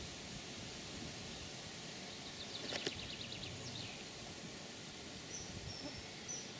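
Small bird calling over a steady outdoor hiss: a quick run of short notes with a sharp click about two and a half seconds in, then a few short, high, level whistles near the end.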